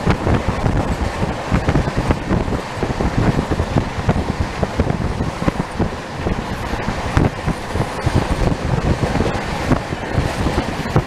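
Shatabdi Express passenger train running on the rails: a steady rumble with rapid, irregular wheel-on-rail clatter.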